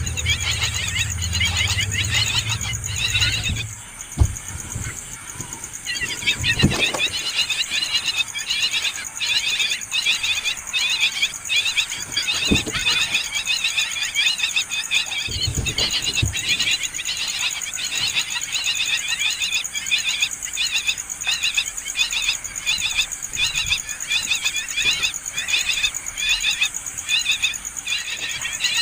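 Nestling birds giving rapid, high-pitched begging calls in a dense chattering stream, a sign they are hungry for food. The calling stops for about two seconds near the start, then resumes and carries on.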